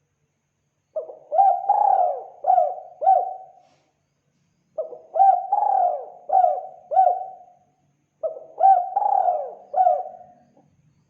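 Spotted dove (tekukur) cooing: three phrases of four or five coos each, separated by short pauses.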